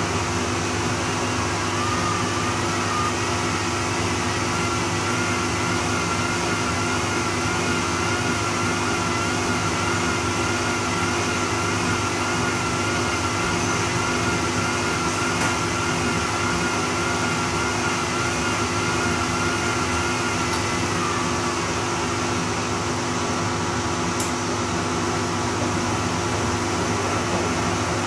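Bosch Serie 2 Vario Perfect washing machine running a steady mechanical hum, with a wavering motor whine that fades out about three-quarters of the way through.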